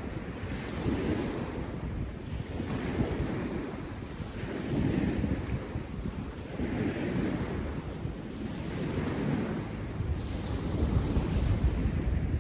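Wind buffeting the microphone outdoors, a noisy rumble that swells and fades every couple of seconds.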